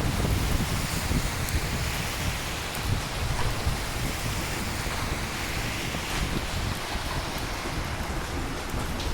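Steady rain with a deep rumble of thunder that is strongest at the start and slowly dies away, and a few sharp drips.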